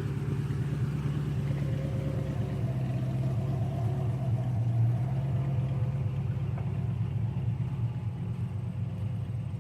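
Antique tractor engine running steadily at low speed, with an even pulsing exhaust note.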